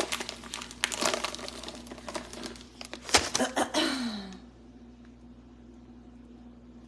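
Close, loud crinkling and rustling with sharp clicks, like something handled right at the microphone, which stops suddenly about four seconds in, leaving faint room tone.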